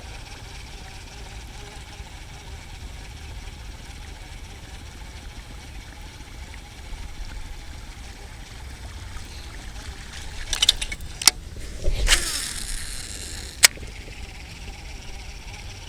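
Wind rumbling on the microphone. About two-thirds of the way through come a few sharp clicks and a brief rushing sound, followed by one last sharp click.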